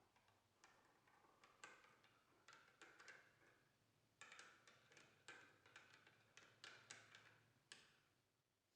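An irregular series of faint taps and clinks, some with a brief ring, coming thicker from about four seconds in and stopping shortly before the end.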